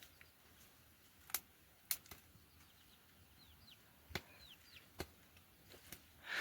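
Four sharp knocks, spaced one to three seconds apart, over a quiet background, with a few short falling bird chirps in the middle.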